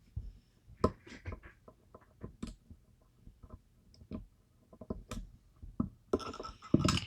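Light metal clicks and ticks, irregularly spaced, as a pick works the sharkfin pins of a DOM IX Twinstar lock cylinder under tension. A longer, louder rustle comes near the end.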